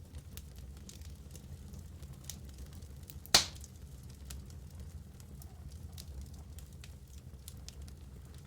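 Wood logs burning in a fireplace, crackling with scattered small snaps over a low steady rumble of the flames, and one loud sharp pop about three seconds in.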